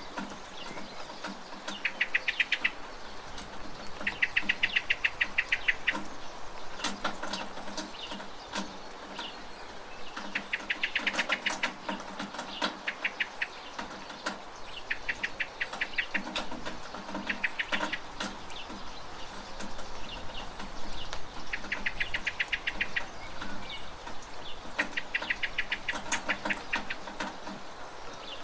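Steady rain with sharp dripping taps, and a bird calling over it again and again: rapid chattering trills of a second or two each, every few seconds.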